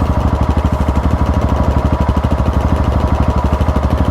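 Single-cylinder trail motorcycle engine running steadily at low revs, with an even pulsing beat of about ten a second.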